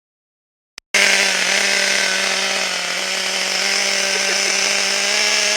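Small electric RC helicopter's motors and rotors buzzing steadily, cutting in abruptly just after a click about a second in.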